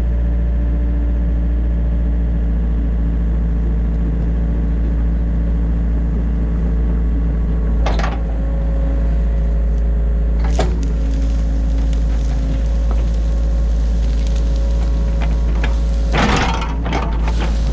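Excavator's diesel engine running steadily, heard from inside the cab, with a sharp knock about 8 seconds in and another about 10.5 seconds in. Near the end comes a burst of clattering knocks.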